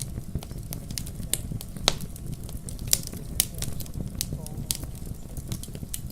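Wood fire crackling in a fireplace, with sharp irregular pops and snaps over a steady low rumble.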